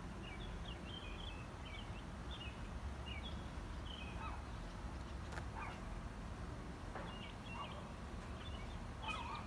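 Birds chirping, short high calls coming in two spells, over a low steady background rumble.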